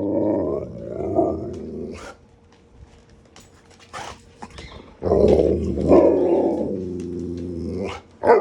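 Alaskan Malamutes vocalizing in their drawn-out, growly howling 'talk': one long call trails off about two seconds in, another runs for about three seconds from the middle, and a short one comes near the end. It is their demand to be fed breakfast.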